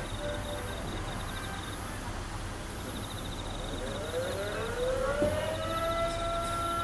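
A siren winding up: its pitch climbs over about two seconds, starting roughly halfway through, then holds a steady tone, with a second lower steady tone joining near the end, over a faint background murmur.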